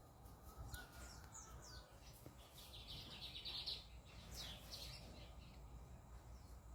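Birds chirping faintly: a run of quick, high, downward-sliding chirps in the middle, over a steady low rumble.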